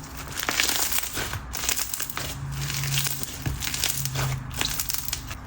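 Seed bead slime being squeezed and pressed by hand, the packed seed beads giving off dense, irregular crunchy clicking and crackling.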